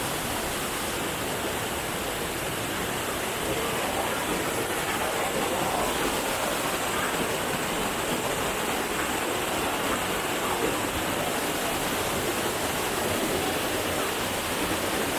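Waterfall's water rushing and splashing over rock tiers: a steady, even roar of falling water.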